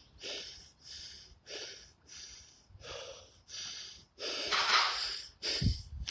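A man breathing hard from exertion, a quick even run of breaths about one every two-thirds of a second, then a longer, louder breath near the end followed by a short low grunt.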